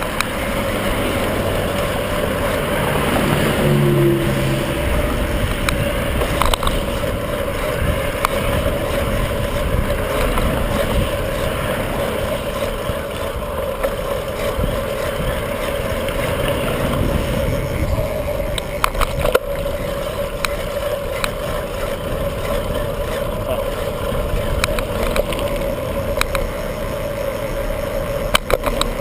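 Steady wind rush and rolling noise from riding a bicycle, with a steady hum and a few sharp clicks in the second half.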